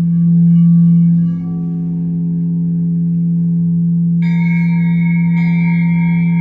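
Deep sustained ringing tone that swells and pulses slightly. About four seconds in, a new ringing strike comes in, and a second one about a second later, adding higher ringing tones that hold on.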